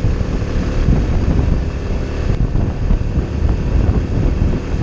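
Honda Innova (ANF125) step-through motorcycle's small single-cylinder four-stroke engine running at a steady speed as it is ridden up a steep mountain climb, with wind buffeting the microphone.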